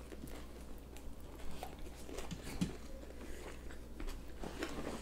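People biting and chewing sushi rolls: soft, wet mouth sounds with scattered small smacks and clicks.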